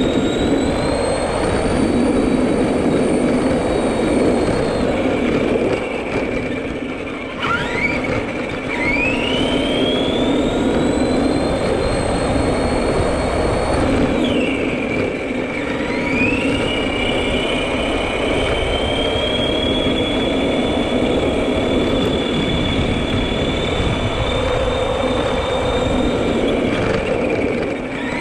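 Electric drive motor of an RC Granite 4x4 monster truck whining under throttle: the whine glides up in pitch and holds high, dips about six and fourteen seconds in and again near the end, then climbs again each time. Underneath runs a steady rough noise.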